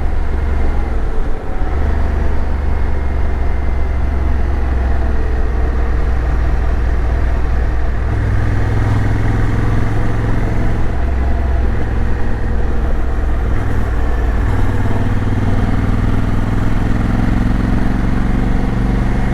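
Motorcycle engine running as the bike rides along, over a steady rush of road noise; the engine note shifts up and down a few times.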